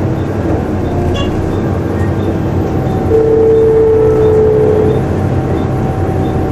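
Volvo B7TL double-decker bus heard from inside, its engine running with a steady low rumble and a high whine, the hoover-like whine these buses are known for. About three seconds in, a second, stronger whine tone comes in and holds for about two seconds.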